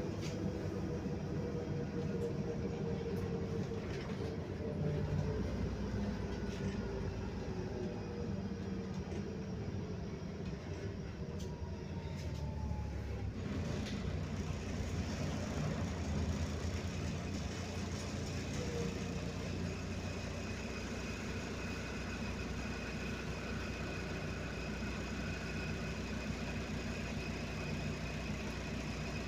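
MAZ 105 articulated city bus running, heard from inside the cabin. A drivetrain whine falls in pitch through the first half, then the engine settles into steady running tones.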